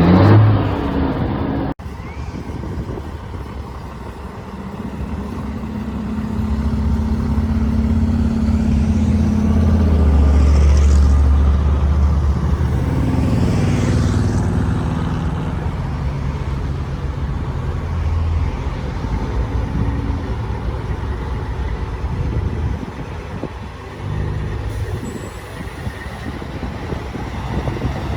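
Heavy truck engines running, a deep rumble that swells to its loudest around ten to twelve seconds in, then carries on more steadily. There is a sudden break in the sound about two seconds in.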